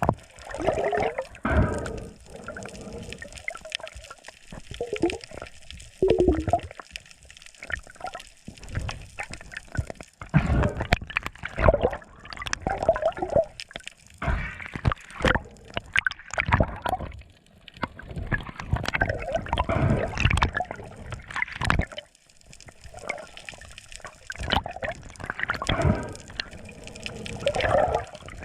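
Seawater gurgling and sloshing in irregular surges, with drips.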